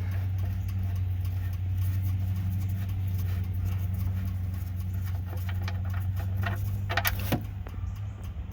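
Engine oil pouring from the drain plug hole into a catch pan as the plug comes out, with a steady low hum throughout and a few short clicks near the end.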